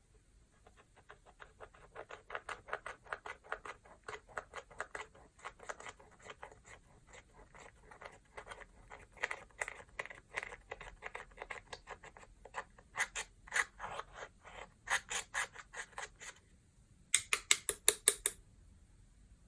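Slime being worked by hand: a rapid run of small, sticky clicks and pops, several a second, with a louder run of clicks near the end.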